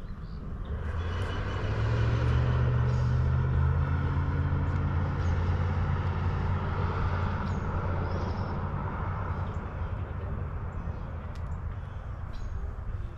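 A motor engine passing by: a steady low hum that swells over the first couple of seconds, holds, then slowly fades toward the end.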